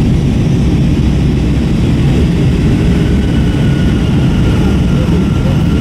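Airbus A321 cabin noise in flight: the steady loud rumble of its two IAE V2500 turbofans and the airflow past the fuselage, heard from inside the cabin. A faint high whine joins it about halfway through.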